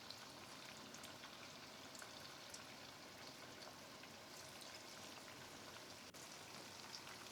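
Pieces of batter-coated salmon frying in hot mustard oil in a pot: a faint, steady sizzle with scattered small crackles.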